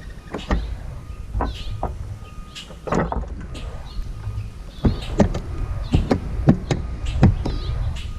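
Birds at a feeder close to the camera: sharp clicks and taps of beaks and feet on the feeder, several a second and uneven. Short high chirps repeat about every second and a half over a low rumble.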